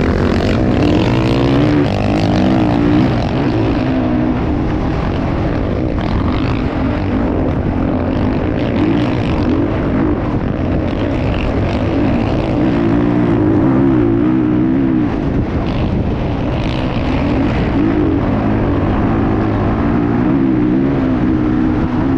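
Motocross bike engines running loud, their pitch rising and falling again and again as the throttle is worked.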